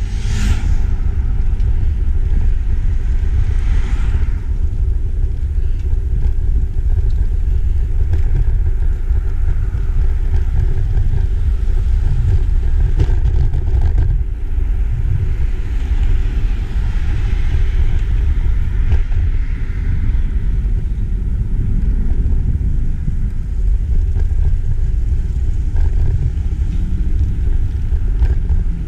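Steady low rumble of wind buffeting a camera microphone on a moving bicycle, with a brief hiss near the start and again about four seconds in.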